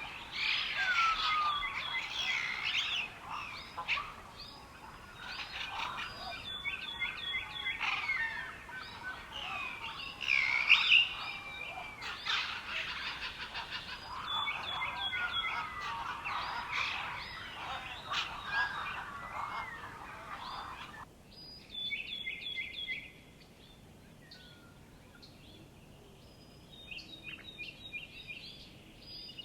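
Many small songbirds singing and chirping together in a dense chorus of overlapping trills, whistles and quick chirps. About two thirds of the way through it drops abruptly to a few scattered chirps.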